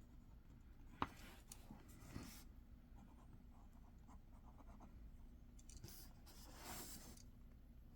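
Faint writing on paper: scratchy pen strokes, with a sharp click about a second in.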